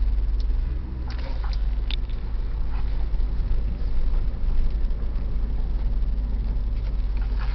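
Cadillac Northstar V8 idling steadily, a low even hum, with a few faint clicks in the first couple of seconds.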